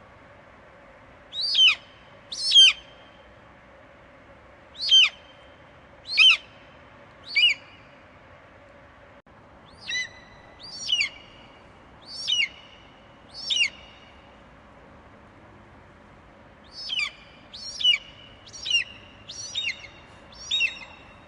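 An eagle giving short, high, shrill screech calls, each falling in pitch, repeated in four bursts of two to five calls, over a faint steady hiss.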